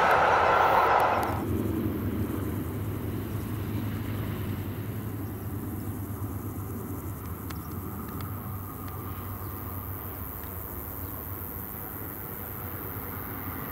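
A freight train rushing past close by for about a second, cut off suddenly; then the faint, steady low rumble of a distant Class 412 ICE 4 high-speed train approaching across open fields.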